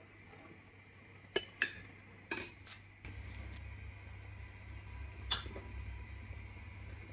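Dishes and cutlery clinking in a kitchen: a handful of light knocks, then one sharper clink about five seconds in. A steady low hum starts suddenly about three seconds in.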